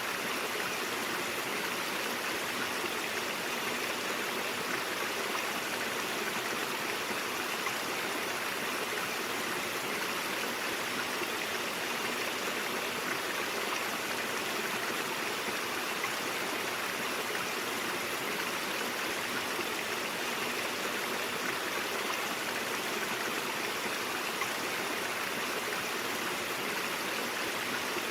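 Brook water flowing over rocks: a steady, even rushing babble with no breaks.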